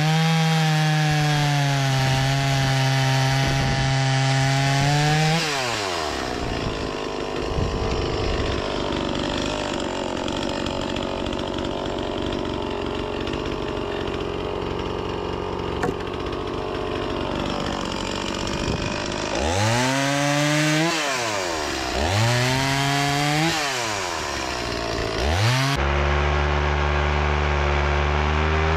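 Two-stroke petrol chainsaw held at full throttle, then cutting through fruitwood for about thirteen seconds with the engine note pulled down under load. After the cut it is blipped up three times and held at high revs again near the end.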